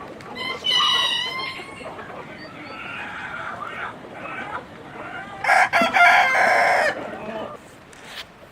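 Chickens calling: a short call about half a second in, then a rooster crowing loudly once, about five and a half seconds in, for over a second.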